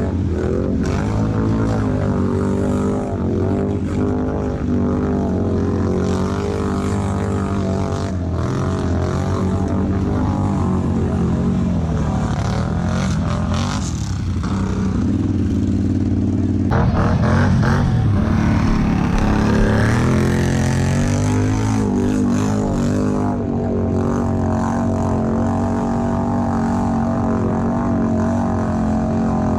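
ATV engine running under way, its pitch wavering and shifting as the throttle changes, louder for a few seconds just past the middle.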